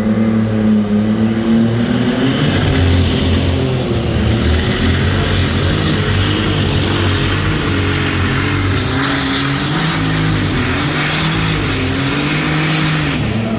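High-horsepower pulling machine's engine running hard during a pull, its pitch wavering up and down under load, with a steady hiss over the top that cuts off suddenly near the end.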